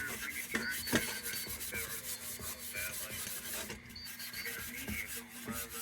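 Steel wool being scrubbed by hand over a part of an old kerosene heater, in irregular rubbing strokes.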